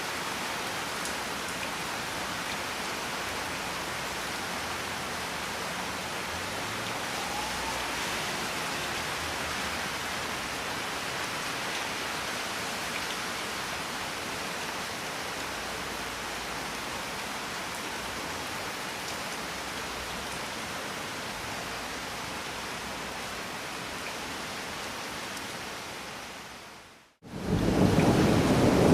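Steady rain falling, an even hiss. Near the end it fades to a moment of silence, then a louder stretch of rain begins with a deep rumble of thunder.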